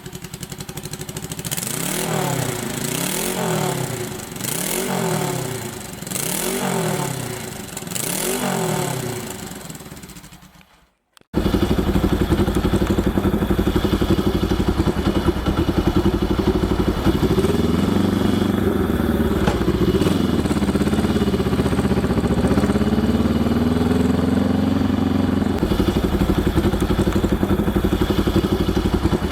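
Honda CL72 250 cc scrambler's twin-cylinder engine and exhaust, blipped up and back down about five times in a row. After a short break it runs steadily again, louder, with a few revs up and down partway through.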